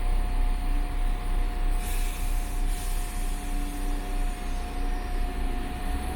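Train running at a platform, with a low rumble under a steady whine, and a short hiss of released air about two seconds in.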